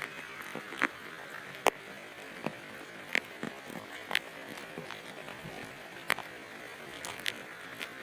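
Light rain falling with a steady hiss, and single drops tapping sharply at irregular intervals, about one a second.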